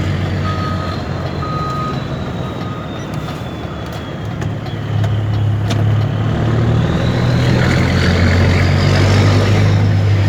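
Mercedes-Benz Actros 2636 V6 diesel truck engine running through an open straight exhaust, getting louder about halfway through. A reversing beeper sounds about once a second over the first three seconds, and a thin high whine sinks and then climbs again.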